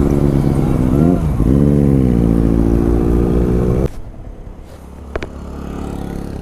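Benelli 600i inline-four motorcycle engine running at high revs, loud and steady, its pitch dipping briefly and climbing back about a second in. About four seconds in it drops abruptly to a much quieter low engine hum, with one short click.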